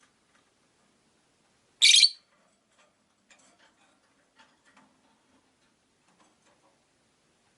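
A rosy-faced lovebird gives one loud, high-pitched call about two seconds in, lasting under half a second, followed by faint scattered clicks and soft chirps.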